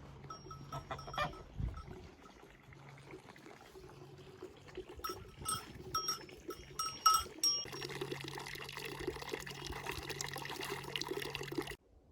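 Livestock bells clanking in irregular bunches, a cluster near the start and another about five seconds in. A steady rush of water comes in at about eight seconds and stops abruptly shortly before the end.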